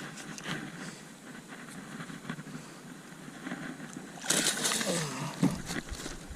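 A hooked redfish splashing and thrashing at the surface beside a jon boat during the fight on a fly rod. Small splashes and knocks come first, then a loud burst of splashing about four seconds in.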